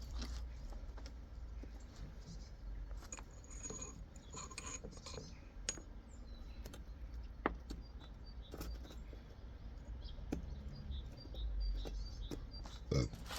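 Small metal clicks and taps, scattered and irregular, as gearbox parts are handled and worked on, with a stronger knock near the end over a steady low hum.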